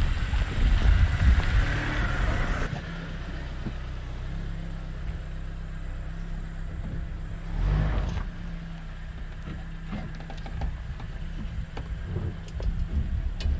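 Suzuki Grand Vitara engine and tyres as the SUV drives slowly over a rough grassy track. About three seconds in, the sound cuts suddenly to a quieter, steady low engine hum, with a short swell about eight seconds in.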